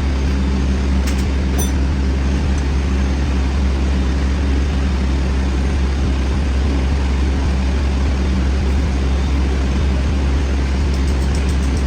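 Metal lathe running steadily with a constant low hum and an even machining drone, with a few faint ticks about a second in and again near the end.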